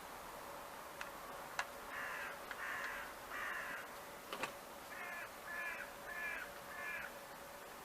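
A crow cawing: three harsh caws in a row, then a pause, then four more.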